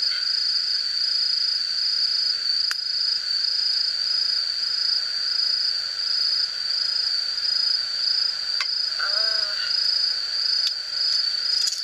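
Chorus of insects chirping: a continuous high-pitched trill, with a few small clicks and a brief short vocal sound about nine seconds in.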